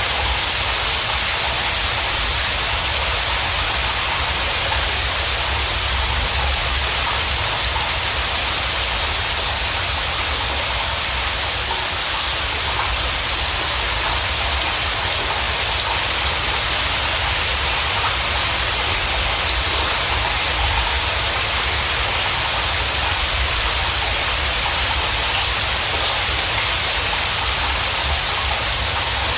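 Steady rain, an even hiss of falling drops with a low rumble underneath.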